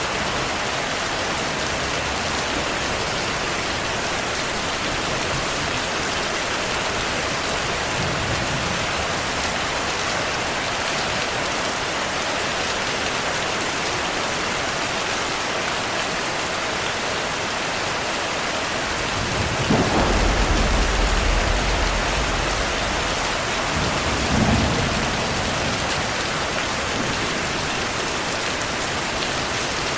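Steady heavy rain falling, with a clap of thunder about two-thirds of the way through that rumbles low for a couple of seconds, then a second, shorter thunder rumble a few seconds later.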